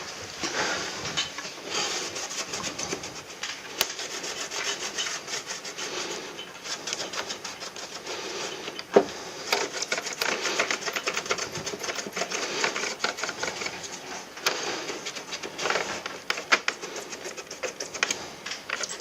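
Irregular rubbing and scraping with scattered clicks, as of hands working on the plastic parts of an air conditioner during cleaning. There is one sharp knock about nine seconds in.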